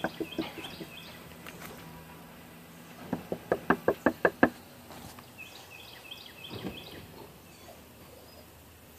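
A quick run of about eight sharp knocks, some three seconds in, over about a second and a half. Faint bird chirps come before and after.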